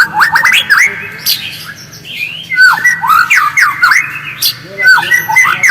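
White-rumped shama (murai batu) chattering: quick runs of short rising whistled notes mixed with sharp clicks.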